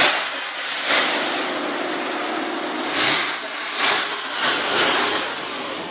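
Audi S6's V8 engine revved in about five short blips, its pitch rising with each, and dropping back to a steady idle between them.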